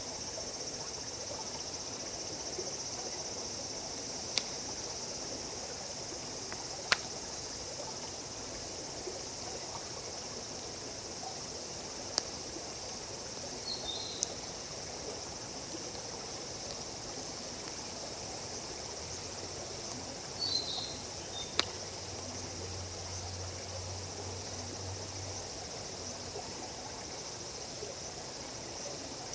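Steady high insect chirring, with a handful of sharp single pops from a wood campfire spread through it. A faint low hum comes in for a few seconds past the middle.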